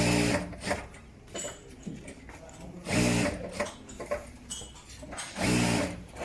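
Industrial sewing machine stitching pocket seams in short runs of about a second each, three times, with small clicks and handling knocks between runs.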